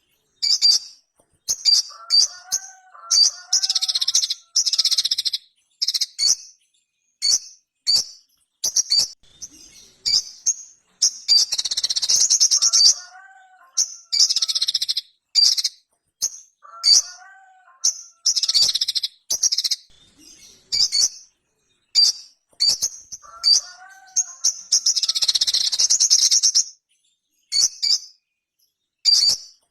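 Sogok ontong (sogon) sunbird singing energetically: a string of short, sharp high chips broken by several longer bursts of rapid, high-pitched chattering, each with lower warbling notes underneath.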